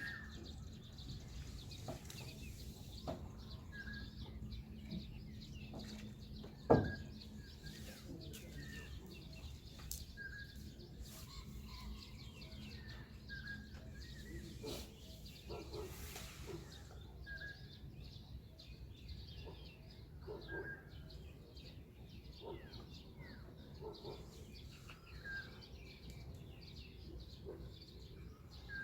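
Birds calling at dawn over a pond, one repeating a short high note every second or two, with fainter chirps and a steady low background rumble. A single loud thump sounds about seven seconds in.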